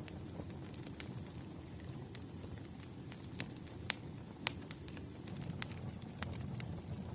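Firewood burning with a steady low rumble and scattered sharp crackles and pops, the loudest two about four and four and a half seconds in.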